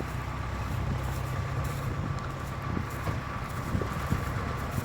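A steady, low engine hum with no change in pitch, and a few light clicks.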